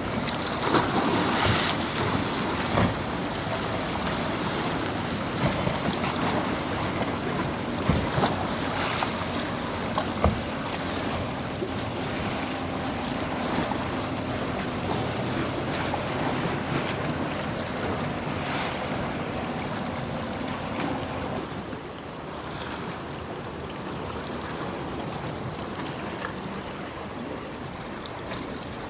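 Waves and surf with wind buffeting the microphone in sharp pops, and the faint steady hum of a boat engine through the middle; the sound eases off a little about two-thirds of the way through.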